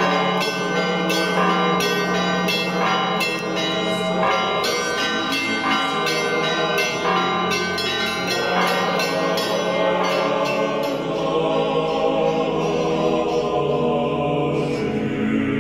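Orthodox church bells ringing in a quick peal, the strikes dying away about two-thirds of the way through and leaving a sustained musical sound.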